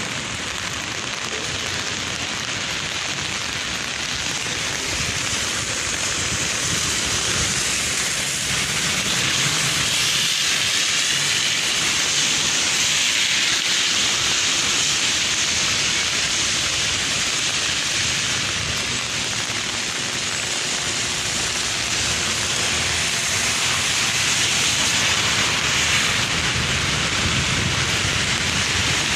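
Heavy rain falling steadily, a dense even hiss of rain hitting surfaces that grows a little louder after the first several seconds.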